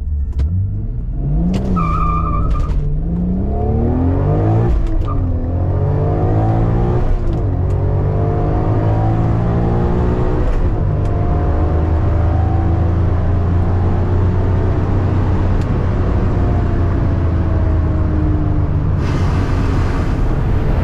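Single-turbo Toyota Supra 2JZ-GTE straight-six at full throttle, revving up through the gears with quick drops in pitch at the shifts about 2, 5 and 7.5 seconds in, then one long, slowly rising pull. A burst of hiss comes in near the end.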